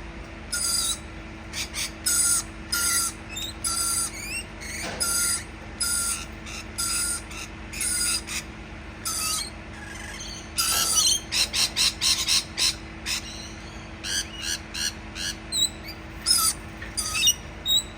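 Parrot calling: a long series of short screeching calls, about one or two a second, breaking into rapid chattering about eleven seconds in and again near the end.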